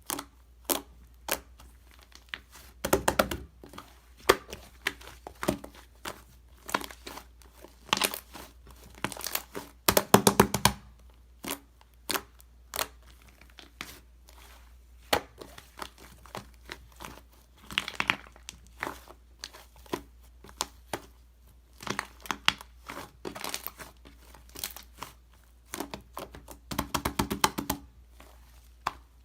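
Packaging crinkling and tearing in irregular handfuls of rustles, with a few louder clusters of crinkles.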